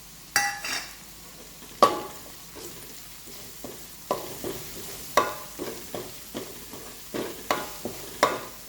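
Crushed ginger, onion and curry leaves frying in hot oil in a pan, sizzling steadily, while a spoon is stirred through it, scraping and knocking against the pan about once a second.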